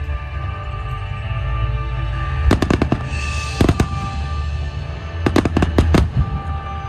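Aerial fireworks bursting with sharp bangs over music with held notes and a steady bass. The bangs come in clusters: a quick run of several about two and a half seconds in, another around three and a half seconds, and a run of four or five more about five to six seconds in.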